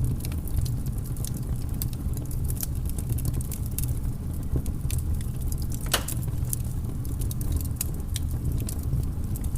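Wood fire crackling in a fireplace: a dense stream of small sharp pops and snaps over a steady low rumble, with one louder pop about six seconds in.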